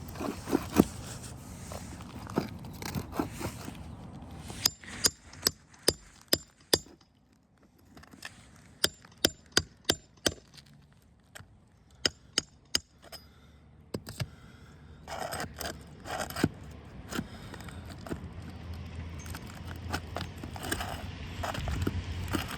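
A metal tool tapping and scraping at a nail holding a roofing hip shingle, working the nail loose. Sharp taps with a slight ring come in quick runs of several, with scraping over the shingle between them.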